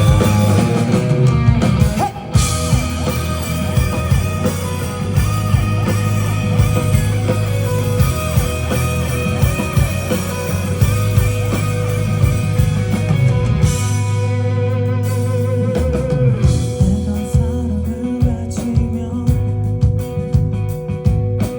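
Live rock band music: electric guitar and drum kit over a steady bass line, with regular drum hits.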